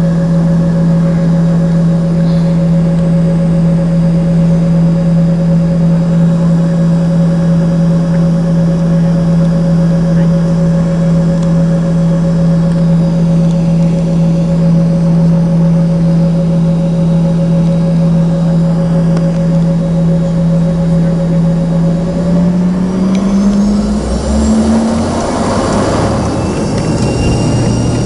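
Embraer ERJ-145's rear-mounted Rolls-Royce AE3007 turbofans heard from inside the cabin: a steady low hum at idle, then about three-quarters of the way through the engines spool up with a rising whine and a growing roar as takeoff thrust is set.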